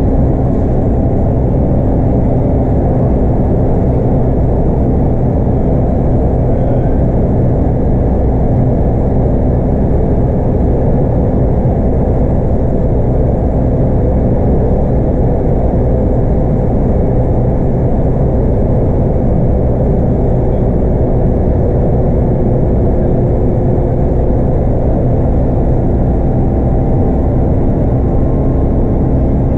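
Scania K230UB city bus's five-cylinder 8.9-litre DC9 diesel and road noise heard from inside the cabin, a steady low rumble with a faint steady whine, running at an even pace without gear changes or revving.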